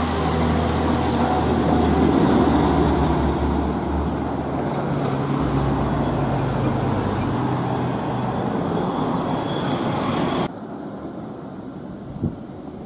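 Heavy diesel truck running on the road, a steady engine hum with road noise. About ten seconds in it cuts off suddenly to a much quieter hum, with a single click near the end.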